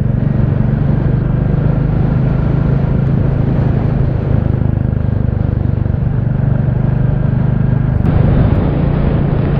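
Royal Enfield Classic 350's single-cylinder engine running steadily while riding along, with road and air noise. About eight seconds in there is a brief click and the engine note shifts slightly.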